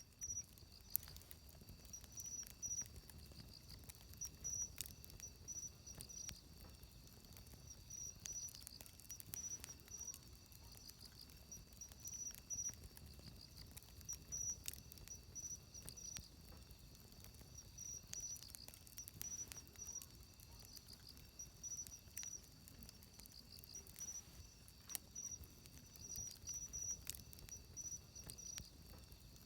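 Wood fire crackling, with irregular sharp snaps and pops over a low hiss. Insects chirp in short, high repeated pulses throughout.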